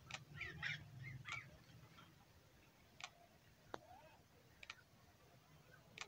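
Faint bird calls: a cluster of short chirps in the first second and a half, then a few isolated sharp ticks.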